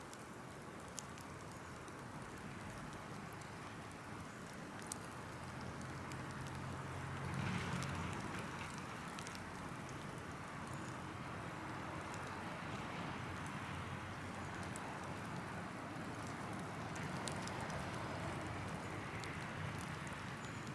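Large open fire of burning tree wood and brush crackling: a dense hiss with scattered sharp pops, swelling louder for a moment about seven seconds in.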